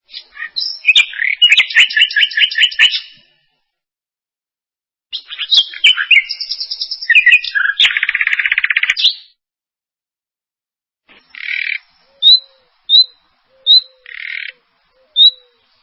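A songbird singing two long, intricate phrases full of rapid trills, then, after a pause, a string of short sharp chirps repeated roughly every half second to second with a couple of buzzy notes among them.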